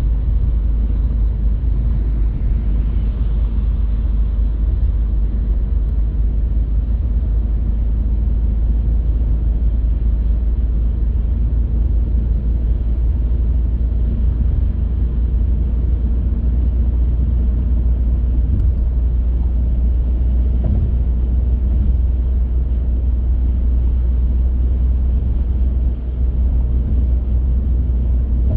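A car driving on the road: a steady, deep rumble of tyre and engine noise.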